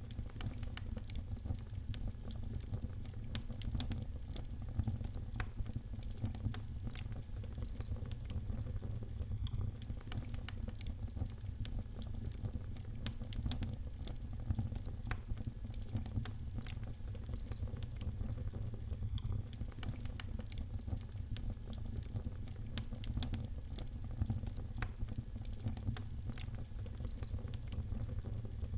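Wood fire in a fireplace crackling: a dense, irregular run of sharp pops and snaps over a low, even rumble of the flames.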